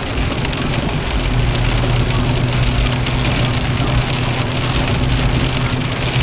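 Sleet and rain hitting a car's roof and windshield in a dense, steady hiss of small ticks, over the low steady hum of the car's idling engine, which grows stronger about a second in.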